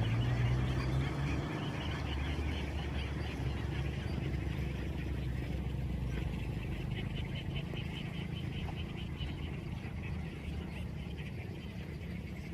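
A large flock of ducks quacking in a dense, continuous chatter, over the low hum of an engine running, which is loudest in the first second and then drops back.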